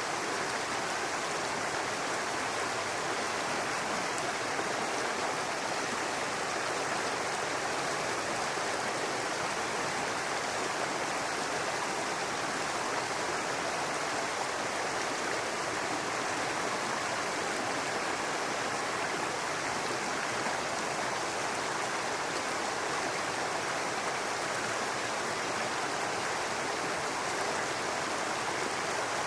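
Babbling brook: a steady, even rush of running water.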